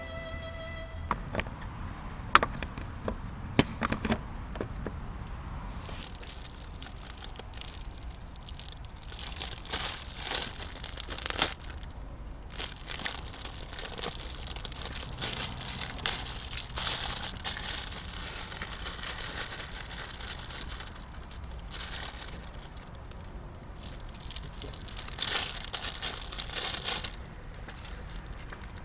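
Packaging crinkling and rustling as it is handled, in irregular bursts, with a few sharp clicks in the first few seconds.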